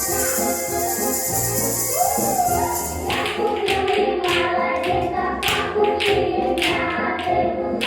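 Noise-instrument orchestra playing along to recorded music: a steady shaken rattle of percussion, and then, about three seconds in, sharp tapping strikes that take over in time with the music.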